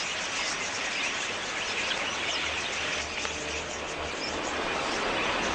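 Large flock of budgerigars chattering, a dense, steady mass of overlapping short chirps.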